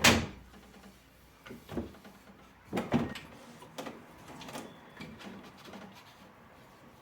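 Kitchen things being handled: one sharp knock at the start, then a string of lighter knocks and clatters over the next few seconds.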